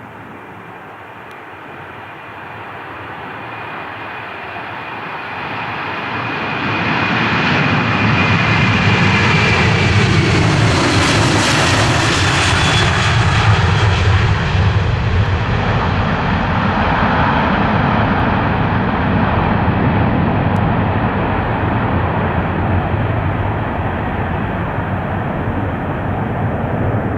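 Airplane engines passing close by. The sound builds for about seven seconds, peaks with a high whine that falls in pitch as the plane goes past, then slowly fades.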